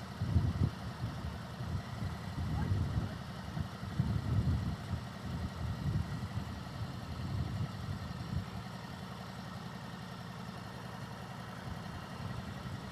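Motorcycle engine running at low speed, an uneven low rumble that swells and fades for the first several seconds, then settles steadier.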